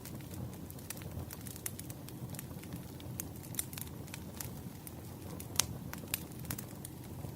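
Firewood burning: a steady low rumble of the fire with irregular sharp crackles and pops, one louder pop a little past the middle.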